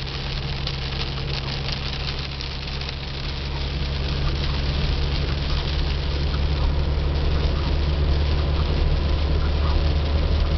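Car engine droning steadily at cruise, heard from inside the cabin on a rain-soaked road, with the hiss of rain and tyre spray over it; it gradually gets louder.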